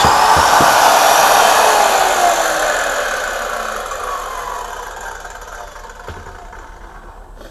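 Electric power saw switched off and coasting down: the motor and blade whine falls in pitch and fades away over several seconds.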